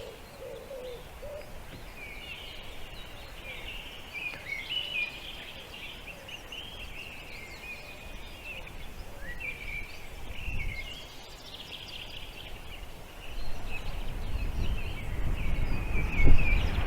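Small birds chirping: a dense, continuous run of short high chirps. A low rumble rises in the last few seconds.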